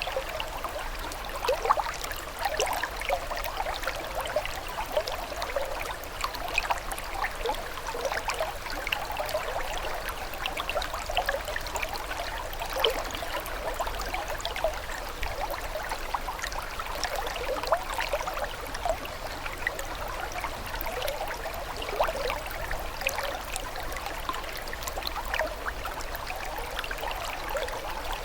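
Running water of a small stream or brook, a steady trickling and babbling with many small splashes.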